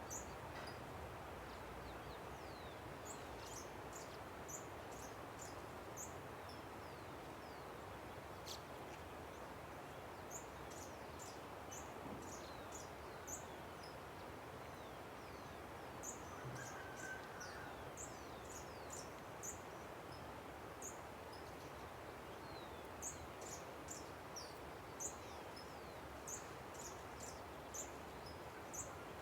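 A river's steady rush with many short, high bird chirps coming in loose clusters over it.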